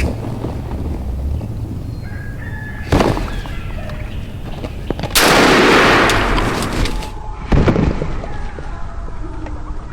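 Wild turkey gobbler gobbling at close range, three times, the longest and loudest gobble in the middle.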